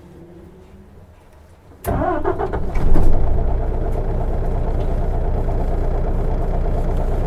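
Isuzu Erga city bus's diesel engine restarting: it cranks and catches about two seconds in, rises briefly, then settles into a steady idle.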